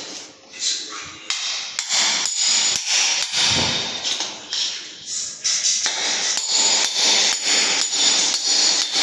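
Hammer striking repeatedly on a construction job, sharp ringing blows, irregular at first and then a steady two to three strokes a second from about halfway through.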